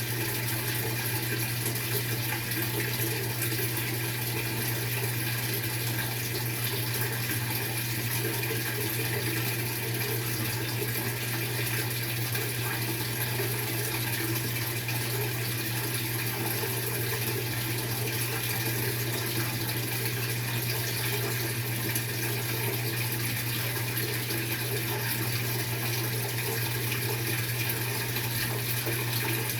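Water running steadily inside a Maytag MVWX655DW1 top-load washing machine during its tub-clean cycle, over a steady low hum.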